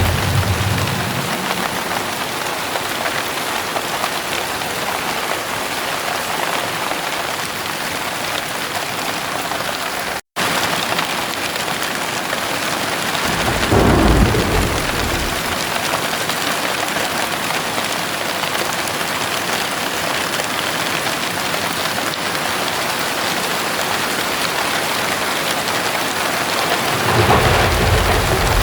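Heavy rain pouring steadily, with low rolls of thunder at the start, about halfway through, and again near the end. The rain cuts out for an instant about ten seconds in.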